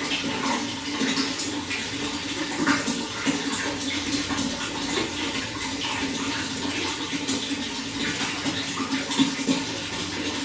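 Running water flowing and splashing steadily, with many small gurgles and drips over a continuous rush.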